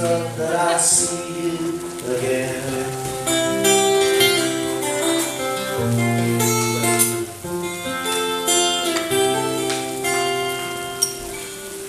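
Acoustic guitar playing with a male voice singing, the closing bars of a song: a sung phrase in the first couple of seconds, then strummed chords ringing on.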